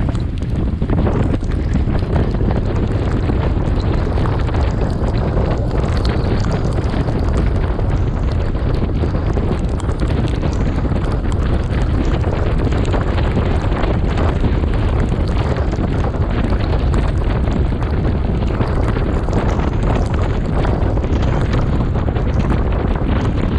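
Steady, loud wind rumble on the microphone of a camera riding on a moving bicycle, mixed with the hiss of tyres and rain spray on a wet road.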